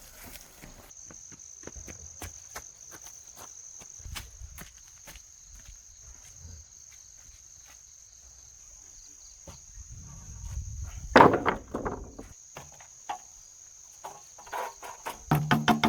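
Insects trilling in one steady, high, unbroken tone, with scattered small clicks and knocks. About eleven seconds in comes a loud clatter, the loudest sound here. Music with a beat starts near the end.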